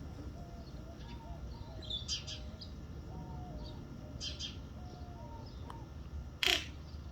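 Greater roadrunner giving low coos in a slow series, each stepping a little lower, with one sharp loud call about six and a half seconds in. Pairs of short high chirps from smaller birds come in twice.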